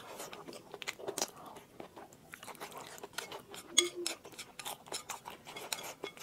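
Close-miked eating: a steady run of wet chewing, biting and lip-smack clicks as rice and braised pig's trotter are pushed into the mouth with chopsticks from a bowl, with one sharp, louder click a little under four seconds in.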